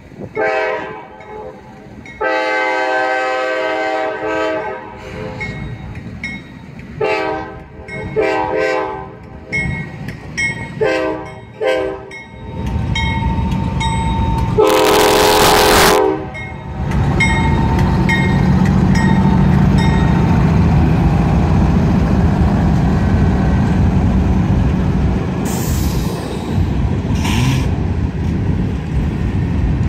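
Diesel freight locomotive's horn sounding a string of short and long blasts as the train approaches a grade crossing, with a crossing bell dinging. About twelve seconds in, the lead locomotives arrive with a heavy engine rumble and one very loud, close horn blast. Then the freight cars roll past with a steady rumble.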